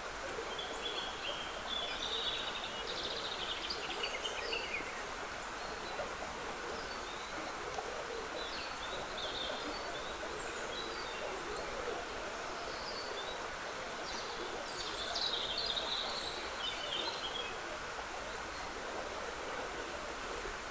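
Steady trickling of a small woodland stream, with several phrases of songbird song over it, the loudest near the start and about two-thirds of the way through.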